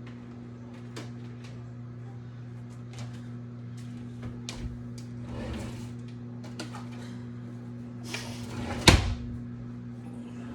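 Light clicks and knocks of things being handled during household cleaning, with a sharp knock like a cabinet door or drawer shutting about nine seconds in, over a steady low electrical hum.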